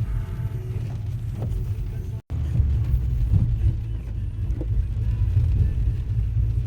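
Steady low rumble of a car heard from inside the cabin, the sound cutting out completely for an instant a little over two seconds in.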